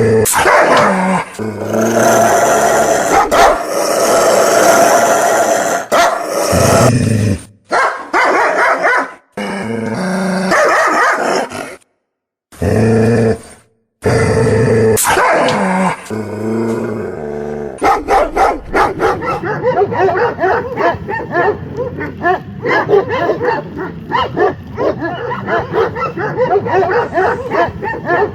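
Dogs barking, with growling and yipping, in a series of short clips that cut off abruptly. In the last ten seconds there is a fast, continuous run of barks.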